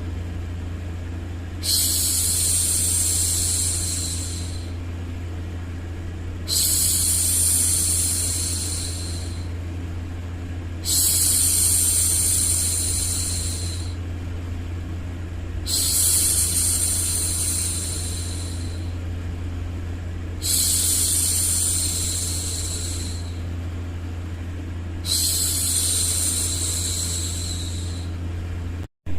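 A woman's voice shushing, a long 'shhh' of about two and a half seconds repeated six times at an even pace, over a steady low white-noise rumble. The sound cuts out for a moment just before the end.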